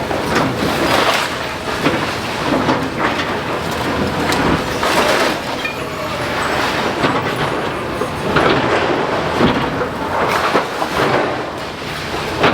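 Excavator demolishing a masonry building: a continuous clatter and crunch of breaking brickwork and falling rubble, with many knocks.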